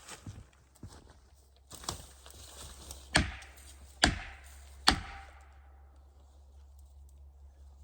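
Three hard blows of a tool striking wood, a little under a second apart, each with a short ringing decay, after a few lighter knocks. A steady low hum runs underneath.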